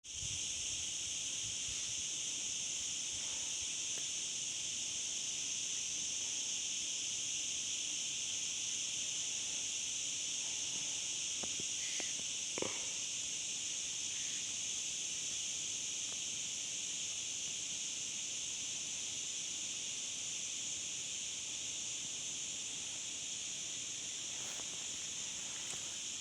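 Steady, unbroken high-pitched insect chorus of crickets or cicadas. A few small clicks or knocks come about halfway through.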